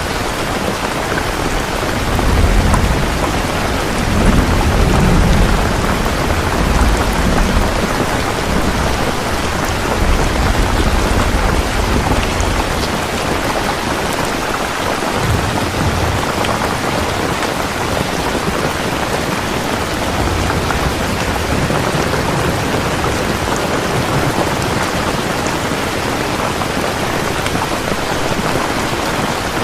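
Steady rain falling, with a low rumble of thunder rolling in about two seconds in and fading out after roughly ten seconds.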